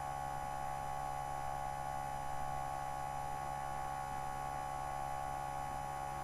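Steady electrical hum with several constant tones, a low hum and a higher whine, unchanging throughout.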